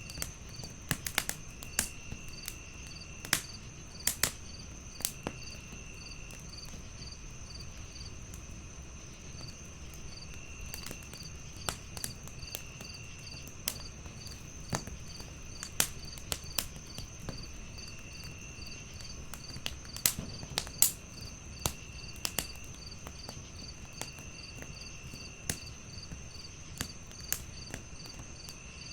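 Wood fire crackling in a fireplace with irregular sharp pops, over a steady chorus of crickets: a continuous high trill, a chirp pulsing about twice a second, and a lower trill that comes and goes.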